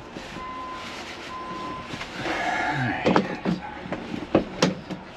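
Two short steady beeps in the first two seconds, then rustling and several sharp clicks and knocks as plastic dash panel parts are pushed into place.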